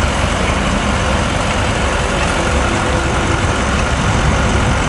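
Heavy truck engine idling steadily, a continuous low rumble under a constant wash of noise.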